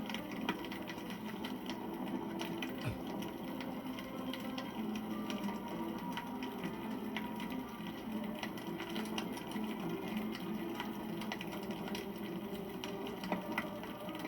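Wood campfire crackling, with many small, sharp pops and snaps scattered throughout over a steady low burning sound.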